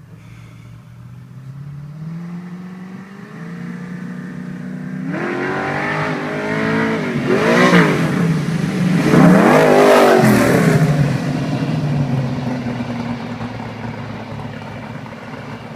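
Race-built small-block Chevrolet V8 (a solid-roller 377) in a drag car, climbing in revs and loudness as it accelerates hard. Its pitch drops sharply twice at the loudest point, then it falls away and fades.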